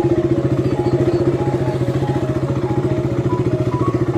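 Motorcycle engine running at a steady speed with a rapid, even pulsing, and a faint stepping tune over it.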